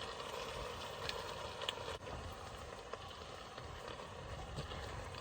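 Steady low hiss of a gas burner running, with a few faint light clicks.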